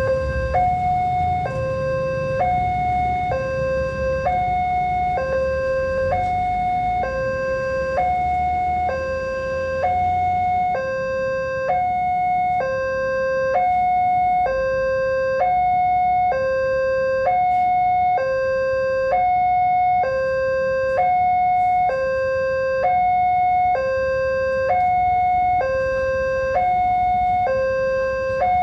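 Railway level crossing warning alarm sounding a steady two-tone electronic signal, alternating high and low about every three-quarters of a second, which warns that a train is approaching and the barriers are down. A low rumble of traffic runs under it and fades out about ten seconds in.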